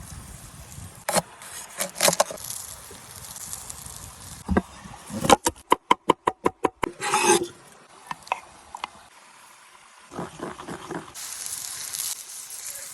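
Food preparation and cooking sounds: utensils rubbing and scraping, a quick run of about eight sharp taps in the middle, and meat sizzling on a hot stone near the end.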